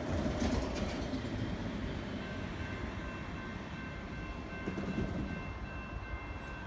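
Long Island Rail Road train rumbling at the station, with a few wheel clicks in the first second. From about two seconds in, a high ringing tone repeats in short, evenly spaced pulses over the rumble.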